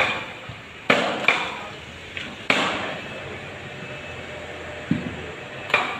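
Sharp metal-on-metal knocks, about five in irregular succession, each ringing briefly like struck steel, with one duller low thump near the end: steel tools and parts striking during the strip-down of a bulldozer engine.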